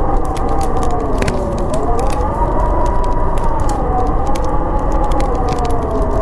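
Howling storm wind, a whistling tone slowly rising and falling in pitch over a steady rush, layered with the sharp, irregular crackle of a wood fire.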